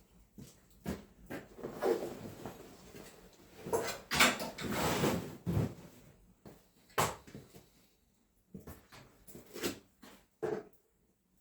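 Irregular knocks, clicks and scrapes of objects being handled, with a longer rustling scrape from about four to five and a half seconds in.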